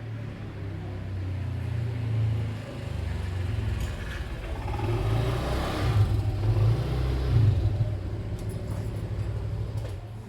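A motor vehicle's engine running nearby with a low, steady hum; it grows louder toward the middle and eases off near the end, as of a vehicle passing.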